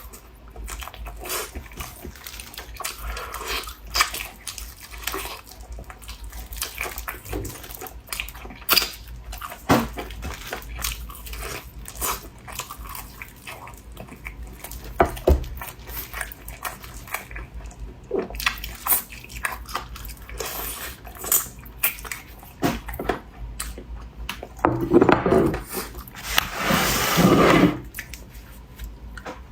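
Close-miked eating sounds: wet chewing, lip smacks and small clicks of the mouth, irregular throughout, with a louder, longer wet stretch near the end.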